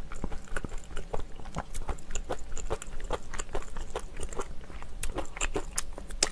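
A person chewing a mouthful of food, with many short, irregular mouth clicks.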